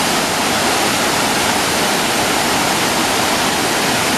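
Waterfall running: a steady, dense rush of falling water.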